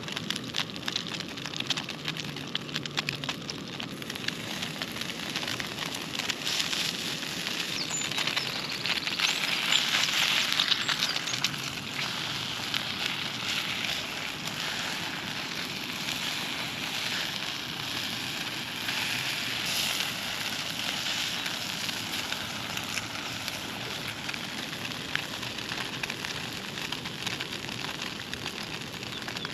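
Matzo brei batter sizzling and crackling in a frying pan over a small gas camping stove, a little louder about ten seconds in.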